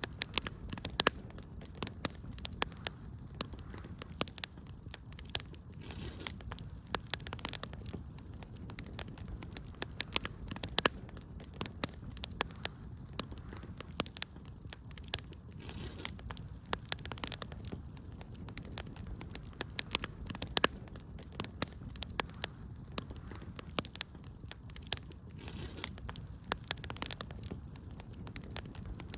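Fireplace fire crackling, with frequent irregular sharp pops and snaps over a low steady rumble.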